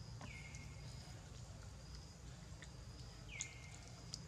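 A bird calls twice, about three seconds apart: each call is a clear whistle that slides down and then holds level for about half a second. A steady low outdoor rumble runs underneath, with a few faint clicks.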